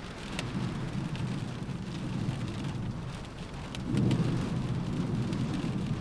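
Rain against a window glass, with scattered sharp ticks of single drops striking, over a low rumble that swells about four seconds in.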